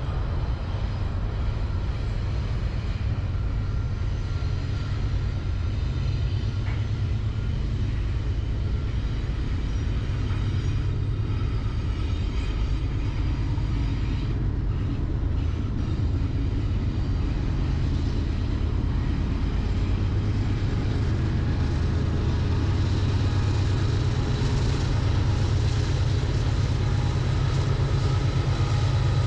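Diesel freight locomotives running with a steady low rumble.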